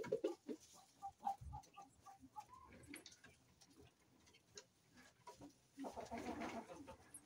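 Faint poultry calls: a run of short, spaced clucks, then a louder, longer call about six seconds in.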